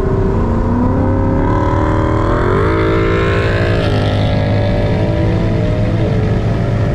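Straight-piped 2017 Ford Focus ST, a 2.0-litre turbo four with its muffler and resonator deleted, accelerating hard alongside, heard through a cracked window over a steady cabin drone. Its pitch climbs for a couple of seconds, drops at an upshift near four seconds in, then holds and drops again near the end. Its exhaust is very loud.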